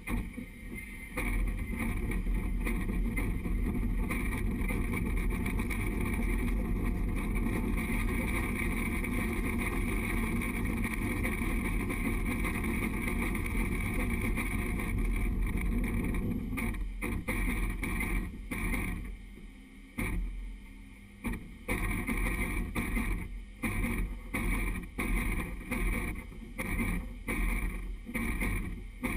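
Durango & Silverton narrow-gauge train running along the track, heard from the front of the train: a steady rushing running noise that turns uneven and pulsing in the last third.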